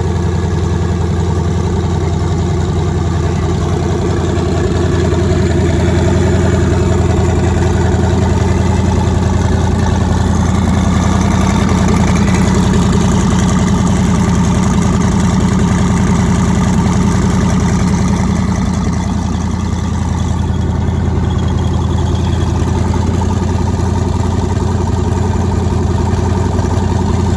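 Twin-turbo LSX V8 in a Nissan 240SX idling steadily on its first start since the turbo install, running on an untuned Holley Terminator X wizard base map. It gets a little louder about five seconds in and settles back down around twenty seconds in.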